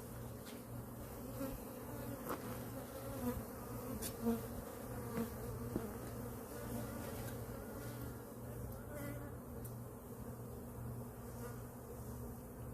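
Italian honeybees buzzing in flight around their hive, a steady droning hum with individual bees swelling louder as they pass close now and then. The bees were just moved to this spot and are flying around to orient themselves to their new home.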